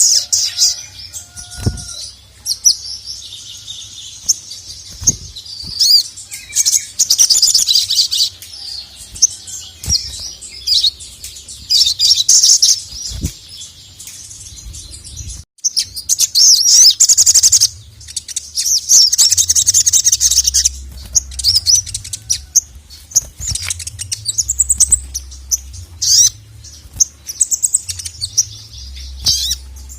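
Sogon (sogok ontong) sunbird singing hard in bursts of rapid, high-pitched chirps and trills, each a second or two long and a few seconds apart, in an excited, aggressive calling song.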